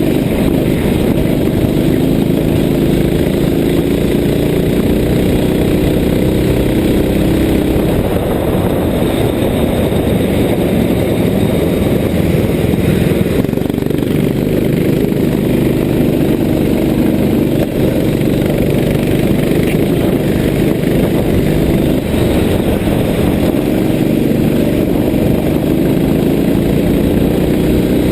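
Go-kart engine running hard, its pitch rising and falling again and again as it revs up on the straights and drops back for corners.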